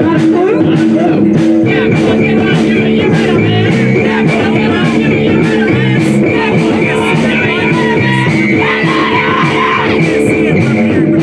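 A rock band playing with guitar and drums: held guitar notes over a steady drum beat.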